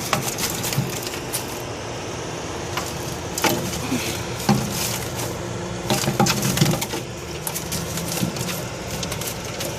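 Irregular knocks, clicks and rattles from a tank or cage being handled to free a trapped mockingbird, with louder clusters about a third of the way in and past the middle.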